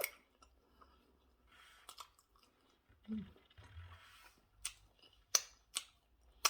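A person chewing food close to the microphone, with several sharp clicks at irregular intervals.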